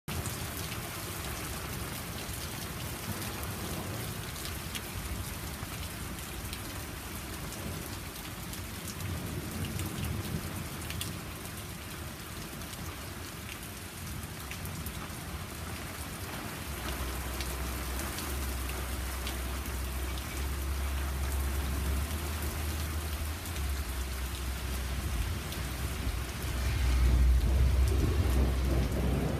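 Heavy rain falling steadily, with fine drop impacts throughout, during a thunderstorm. Low thunder sets in about halfway and rumbles on, loudest near the end.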